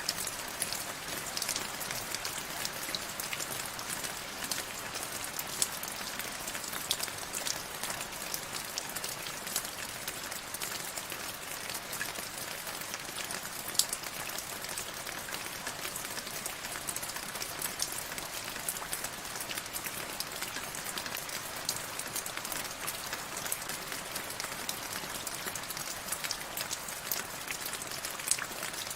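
Steady rain falling, a dense hiss of drops with many sharper individual drop taps scattered through it.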